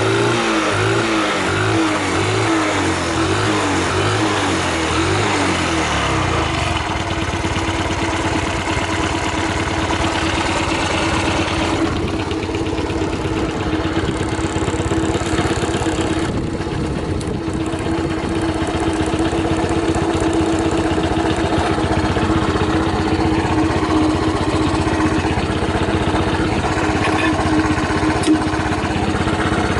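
Suzuki Gag's 50 cc single-cylinder four-stroke engine revved in short blips for the first several seconds, then settling into a steady idle. It runs cleanly, revving up well with no abnormal noises.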